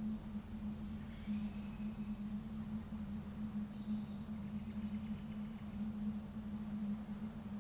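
A steady low hum over a low rumble, with a few brief high-pitched bird chirps scattered through it.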